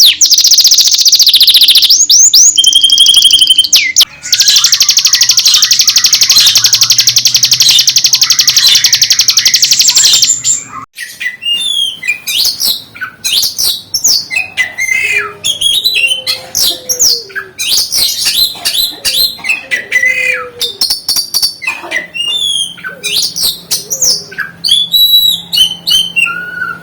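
Songbirds singing, a mix of canary, prinia (ciblek gunung) and oriental magpie-robin (kacer) song used as a lure track to stir other birds into song. It opens with a dense, very fast high trill, broken briefly near four seconds, that runs for about ten seconds, then turns to a string of varied sharp whistles and chirps.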